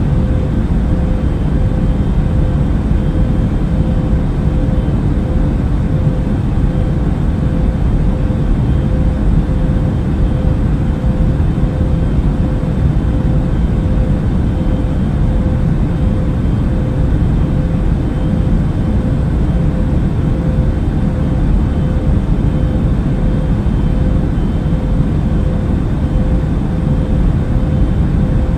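Steady airliner cabin noise in flight: a deep, even rumble with a faint steady hum running through it.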